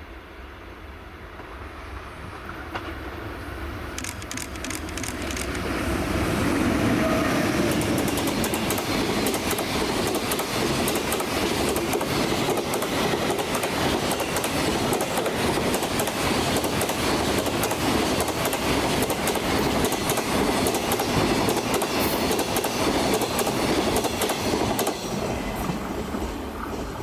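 EH500 electric locomotive hauling a freight train through a station without stopping. The sound builds over the first several seconds as the locomotive approaches, then holds as a steady rumble with rapid clickety-clack of wagon wheels over rail joints, and drops off near the end as the last wagons pass.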